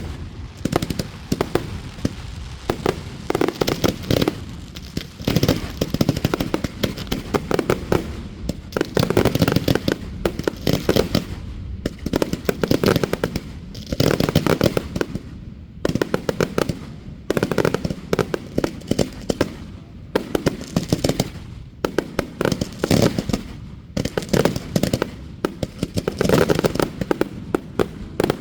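Aerial fireworks going off in a rapid, near-continuous barrage of bangs and crackles that come in waves with brief lulls.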